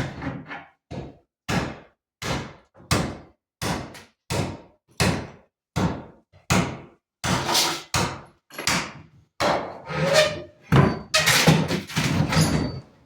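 Repeated heavy hammering blows, about two a second, growing louder and more jumbled over the last few seconds, during the dismantling and repair of old furniture.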